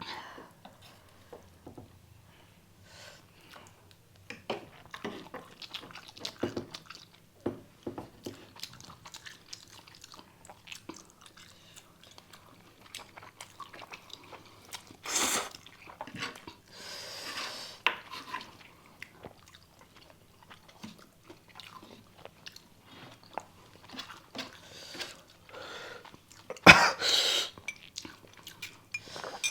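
Eating 3x spicy ramen noodles: steady close chewing with many small mouth smacks. There are a few louder noisy bursts around halfway, and a sharp loud sound about 27 seconds in.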